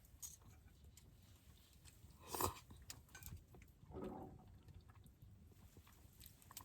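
Faint, sparse sounds of someone eating: a few soft chewing and mouth noises, the loudest about two and a half seconds in.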